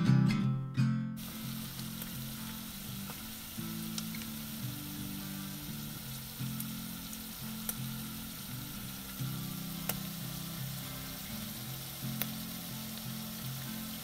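Chopped onion and garlic sizzling in hot oil in an Instant Pot's stainless steel inner pot on sauté mode, with a few light clicks over the steady frying hiss. A strummed guitar tune cuts off about a second in.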